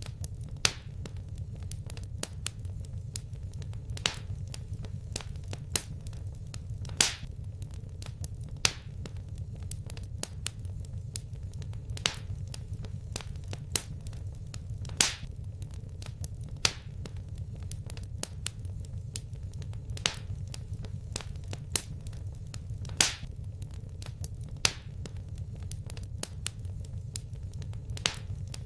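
Wood fire crackling in a fireplace: sharp pops every second or two over a steady low rumble.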